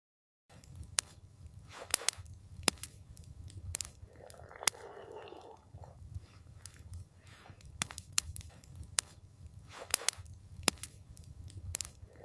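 Campfire crackling: irregular sharp pops and snaps over a low, steady rumble of burning wood, with a brief softer hiss about four seconds in. It starts after about half a second of dead silence.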